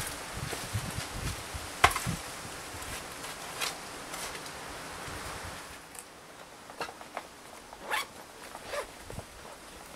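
Dry fallen leaves and twigs rustling, with a scatter of sharp cracks and clicks, the loudest about two seconds in. The rustling dies down after about six seconds, leaving a few separate cracks.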